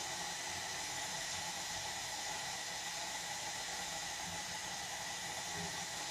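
Steady hiss, with a few soft low knocks now and then.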